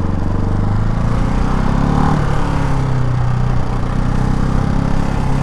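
Ducati Hypermotard 698 Mono's single-cylinder engine running steadily under way, its pitch shifting slightly about two seconds in. The engine is still being broken in, so it is kept short of high revs.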